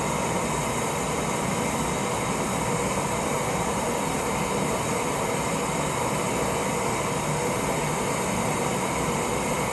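Propane camp stove burner running steadily under a lidded pot of water, a constant even hiss with no change in level.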